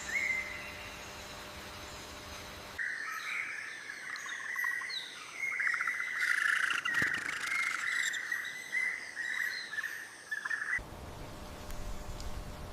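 Birds chirping and twittering in a busy chorus of high calls, starting suddenly about three seconds in and stopping suddenly near the end, over a faint hiss.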